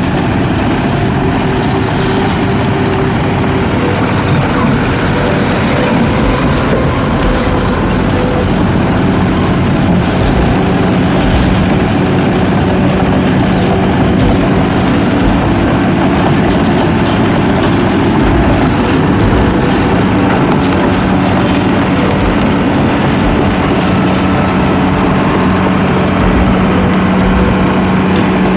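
Heavy diesel engine running steadily, with one constant low drone under a dense mechanical rumble.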